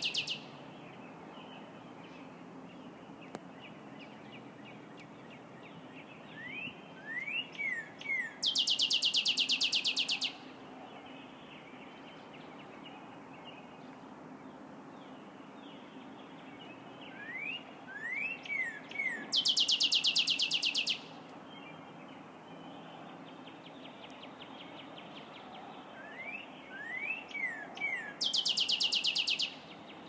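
A songbird singing the same song about every ten seconds. Each song is a few quick slurred notes followed by a loud, very fast, high trill lasting about two seconds.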